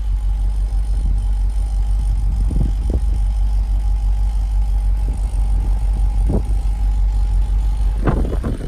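1964 Chevrolet Corvette's 327 small-block V8 running with a steady low rumble.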